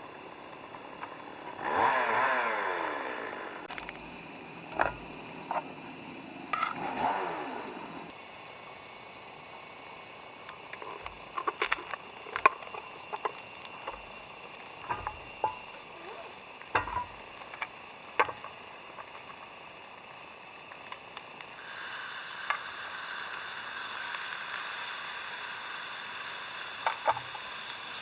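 A steady, high-pitched chorus of insects such as crickets or cicadas, with scattered sharp clicks throughout and two falling calls near the start.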